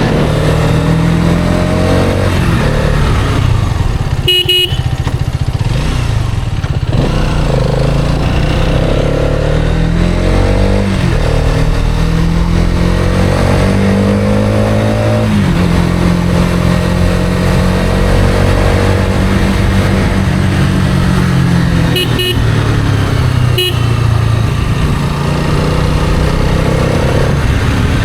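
Hero Karizma XMR's single-cylinder engine running under way, its pitch climbing steadily and then dropping back as it accelerates and shifts gear. A horn gives a short beep about four seconds in and two more near the end.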